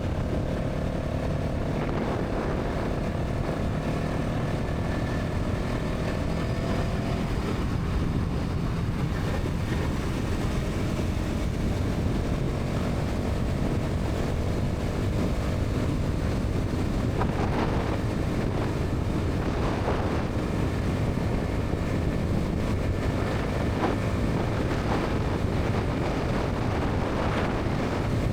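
Bajaj Pulsar NS 200's single-cylinder engine and exhaust running at steady highway speed, its note partly buried under heavy wind rush on the microphone.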